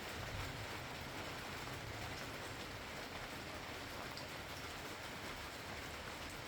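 Steady rain falling, an even hiss of drops on surfaces, with a low rumble underneath that is strongest in the first couple of seconds.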